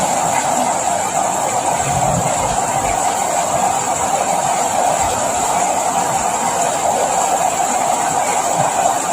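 Steady rain noise, an even hiss with no let-up, with a few faint low thumps.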